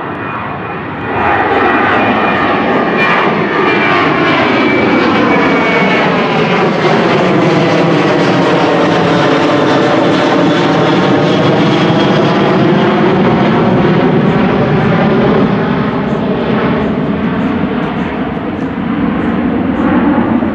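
Boeing 737-800's CFM56-7B turbofan jet engines at takeoff power as the airliner passes. A steady, loud roar swells about a second in, with a high whine that slowly falls in pitch, and the roar eases slightly near the end.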